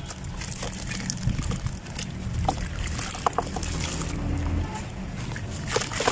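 Dry sand-cement crumbling: scattered small crackles and clicks over a steady low rumble.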